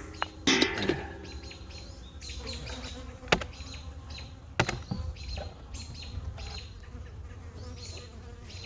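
Honey bees buzzing steadily around an open hive, with several sharp knocks of hive equipment: a few in the first second and two more a few seconds later.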